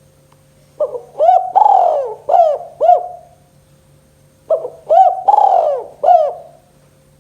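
Spotted dove (tekukur) singing its 'kuk 2' song. It gives two phrases of cooing notes, each with short notes around a longer drawn-out coo, about three and a half seconds apart. A faint steady hum runs underneath.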